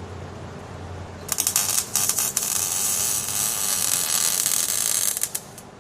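MIG welder arc crackling as a weld is run. It sputters on and off a few times about a second in, then crackles steadily, and cuts out shortly before the end.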